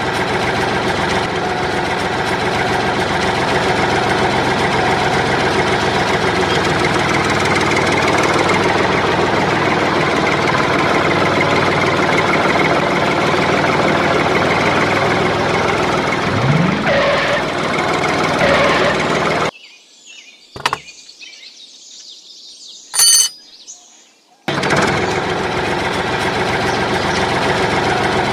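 Small engine of a homemade mini tractor running steadily with a dense buzzing drone. Past the middle it drops out for about five seconds, with only a click and a short high beep heard, then runs on again.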